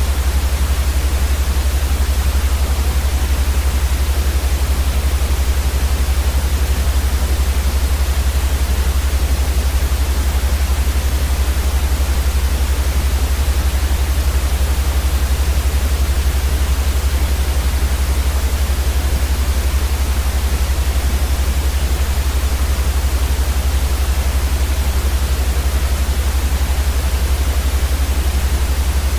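Steady white noise played for baby sleep: an even, unbroken hiss across all pitches, with a strong low hum beneath it.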